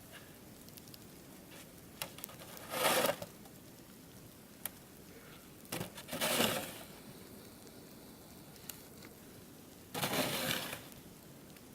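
Three short bursts of crunching, scraping noise, each about a second long and a few seconds apart, each beginning with a sharp click.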